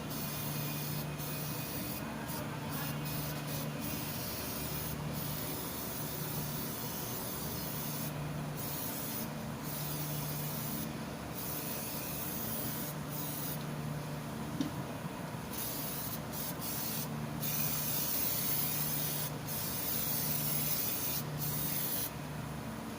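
Steady high hissing like air or spray, broken by short gaps several times, over a low hum that comes and goes about every second or two.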